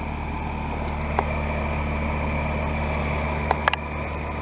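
Carrier heat pump outdoor unit, a 5-ton Carrier Comfort, running steadily in cool mode: a low hum from its compressor and fan with a faint high whine. A few short clicks come about a second in and again near the end.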